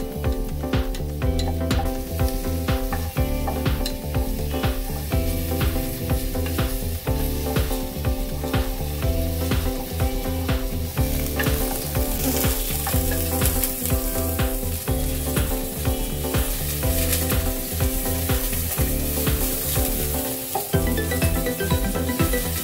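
Garlic and onion sizzling in hot oil in a pot, with a wooden spatula stirring and scraping the pan bottom; the sizzle gets louder about halfway through as the onion goes in. Background music plays underneath.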